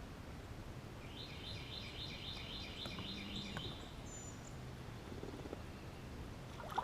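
A bird singing a run of quick repeated high notes, about four a second, for roughly two and a half seconds, followed by a single short higher whistle, over a low steady outdoor background noise.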